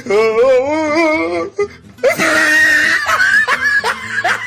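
Exaggerated high-pitched comic laughter from a looped meme sound effect. It starts with a long wavering cackle, breaks into a wheezing squeal, then turns into quick rising 'hee' yelps, about three a second.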